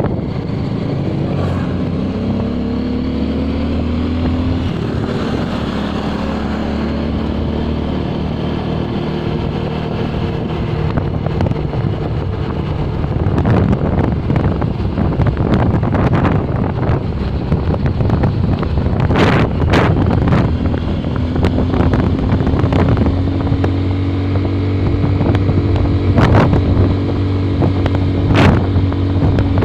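Motorcycle engine running under way, its pitch rising and falling as the speed changes, with wind buffeting the microphone and a few brief knocks.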